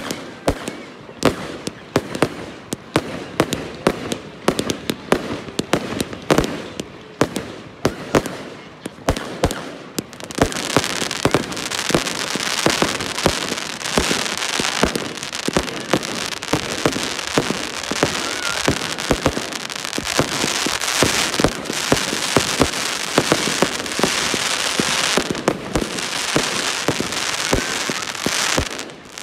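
Consumer fireworks firing in quick succession: rapid sharp bangs for the first ten seconds, then from about ten seconds in a dense continuous crackle with bangs going off through it, easing just before the end.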